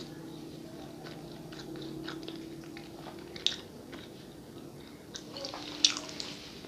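A person chewing and eating with mouth sounds close to the microphone: a run of small wet clicks and smacks, with two louder smacks, one in the middle and one near the end.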